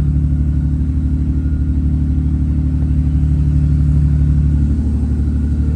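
Cummins diesel pickup engine running steadily while driving, a low drone with a fast even pulse.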